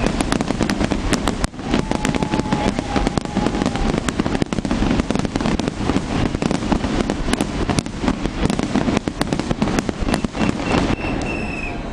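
Large fireworks display: a dense, continuous barrage of bangs and crackles over a low rumble, dying down near the end.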